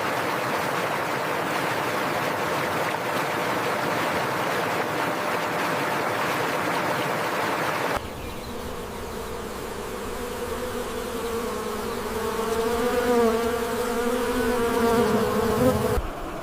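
Insects buzzing: first a steady, even hum, then, after an abrupt change about eight seconds in, a closer buzz with a pitch that wavers up and down until it cuts off near the end.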